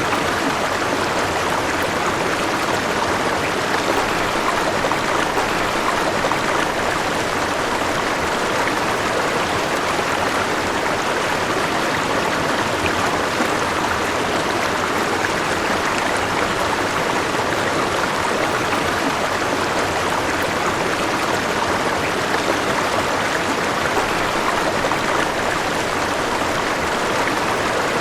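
River water flowing over rocks, a steady, even rushing and babbling.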